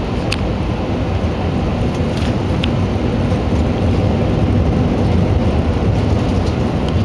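Steady roar of an Airbus A321's engines and rushing air, heard from inside the passenger cabin during the landing approach, with a couple of faint clicks.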